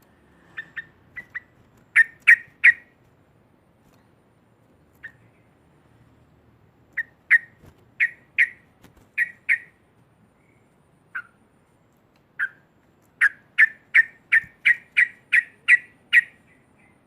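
Yellow-vented bulbul (trucukan) calling loudly: short, sharp, clipped notes, a few scattered at first, then a quick even run of about ten notes near the end.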